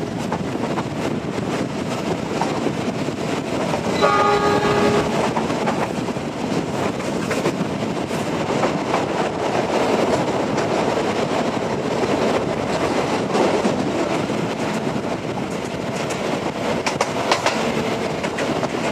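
Passenger train running along the track, with a steady rumble of wheels on rails and scattered clicks over rail joints. About four seconds in, the locomotive horn sounds once, for about a second.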